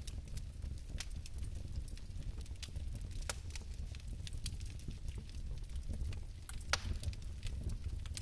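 Fireplace fire crackling: irregular sharp pops and snaps over a steady low rumble, with a louder pop about three seconds in and another near seven seconds.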